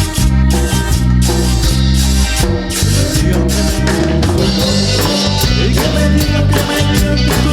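Instrumental band music with accordion, bajo quinto, bass guitar and drums, playing over a steady beat.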